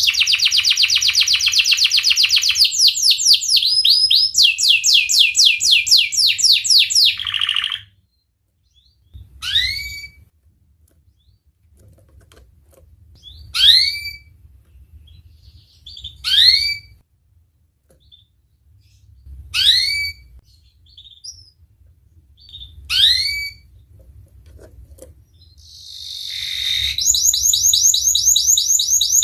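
Domestic canary singing: a fast rolling trill for about seven seconds, then a string of single rising chirps about every three seconds, and another fast trill building up near the end.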